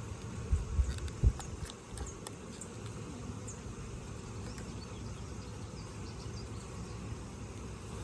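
Honeybees buzzing steadily around an open hive. A few dull low thumps come about a second in, the loudest of them last.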